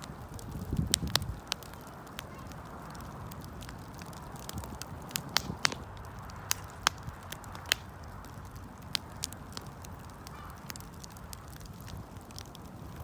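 Wood fire burning, crackling with irregular sharp pops and snaps over a soft steady rush of flame, with a cluster of louder snaps about a second in.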